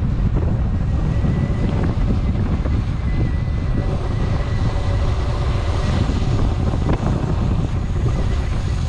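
Wind noise rushing over the microphone of a moving electric dirt bike, steady throughout, with a faint thin high whine from the electric motor coming in about a second and a half in.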